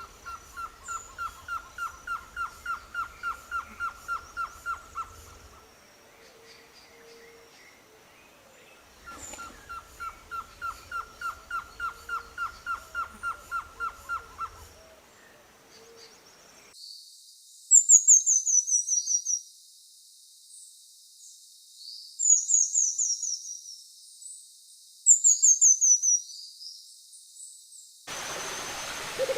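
Bird song in two recordings: first a long, even series of short whistled notes at one pitch, about four a second, heard twice with a pause between; then a different bird's high, thin song of quick falling notes, given three times.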